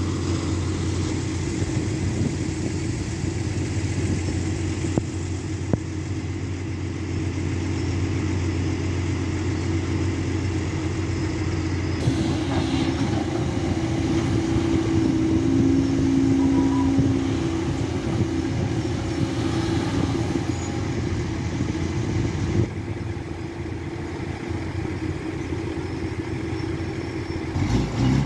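SANY SY215C excavator's diesel engine and hydraulic pump running steadily, with a stronger hum through the middle stretch.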